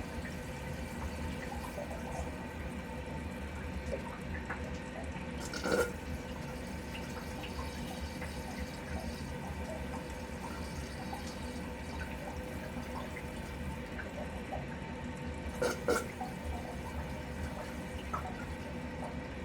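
Water running and dripping steadily as a water heater is drained during a flush, with two brief louder knocks or splashes, about six seconds in and again near sixteen seconds.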